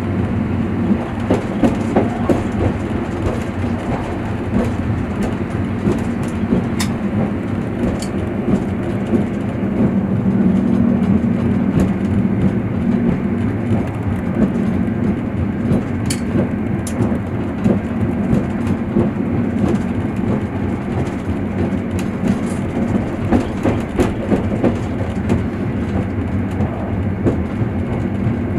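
Passenger train running on the rails, heard from inside the carriage: a steady low rumble with irregular clicks and knocks of the wheels over the rail joints.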